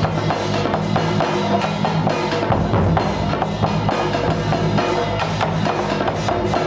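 Percussion-led music: rapid drum and wood-block strikes over a steady held low tone.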